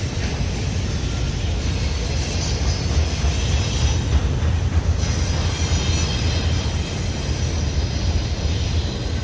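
Union Pacific intermodal freight cars rolling past with a steady low rumble of wheels on rail. A faint high-pitched wheel squeal comes and goes in the middle.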